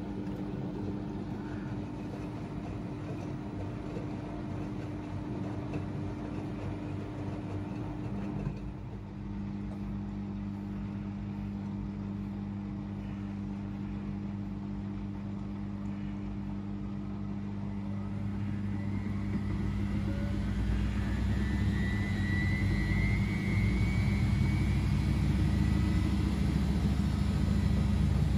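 Two front-loading washing machines (AEG Öko-Lavamat 88840 and Miele Novotronic W 985) running, with a steady motor hum. About two-thirds of the way in, one drum speeds up: a deeper, louder rumble and a whine that rises in pitch as the machine ramps up toward a spin.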